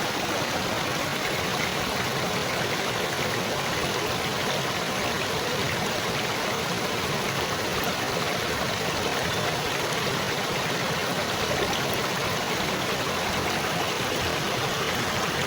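Steady babbling, trickling water, as of a small stream, running unchanged throughout.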